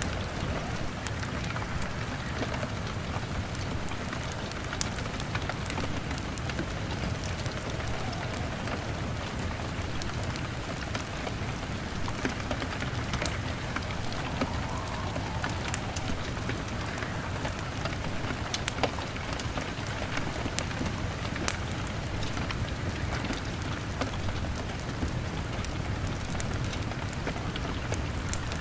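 Steady rain pattering on a window, with sharp scattered crackles and pops from a wood fire and a low rumble underneath.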